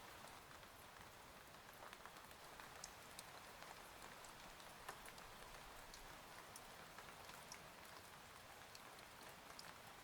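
Soft, steady rain ambience, an even patter with scattered faint drop ticks, as of rain on a cabin window.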